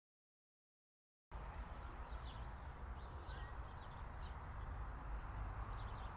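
About a second of dead silence, then faint outdoor ambience: a steady low rumble with a few short, faint high chirps, likely birds.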